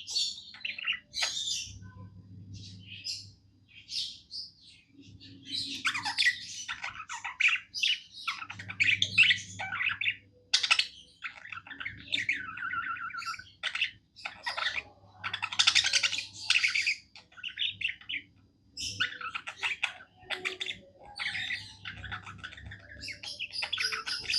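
Budgerigar warbling: a fast, continuous chatter of chirps, squawks and short whistled notes, with brief pauses.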